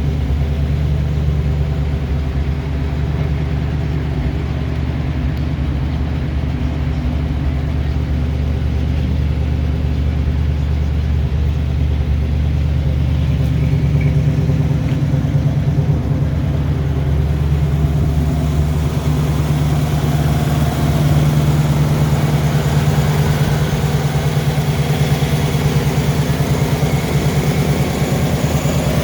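1973 Ford Bronco's 302 V8 engine running at a steady speed, with a deep, even rumble. It gets a little louder and hissier about two-thirds of the way through.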